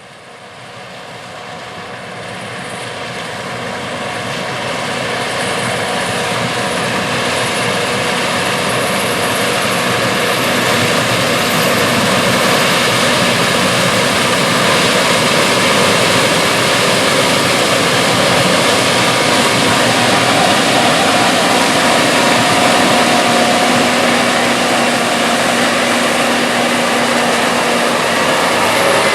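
Case IH 8250 Axial-Flow combine running, a steady, dense machine noise that fades up over the first several seconds and then holds.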